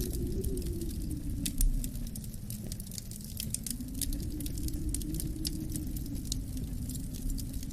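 Wood fire crackling with irregular sharp pops and snaps over a steady low wind rumble that swells and eases. One louder low thump about a second and a half in.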